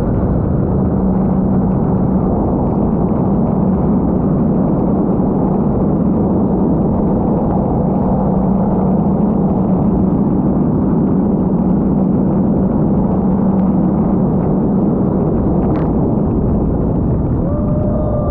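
Sea-Doo GTR230 personal watercraft's supercharged three-cylinder engine running at a steady speed under way, with a steady engine drone over a heavy rush of wind and water.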